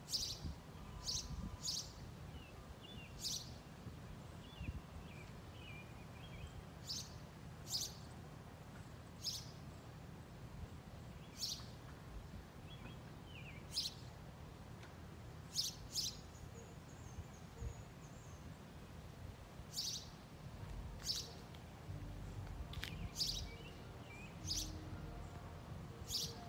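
A bird chirping: short, sharp high chirps that come again every second or two at uneven gaps, with fainter twittering between them, over a steady low background rumble.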